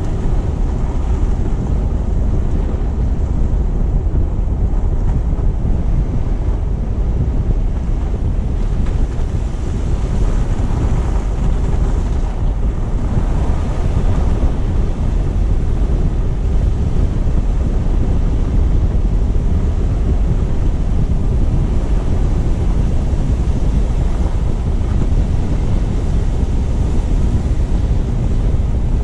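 Wind buffeting the microphone of a low-mounted action camera on a moving car, mixed with tyre and road noise: a steady, loud low rumble and rush.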